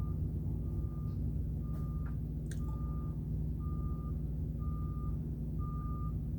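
Vehicle backup alarm beeping steadily, one single-pitched beep about every second, over a steady low engine rumble.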